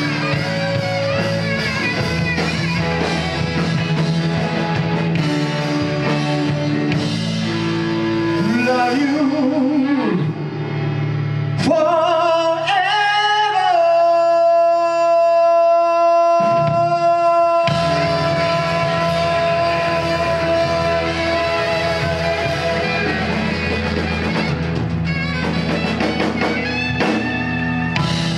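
Live rock band playing a song with singing, bass and drums. About twelve seconds in the band drops out and a single long high note is held, sliding up into it, before the full band comes back in.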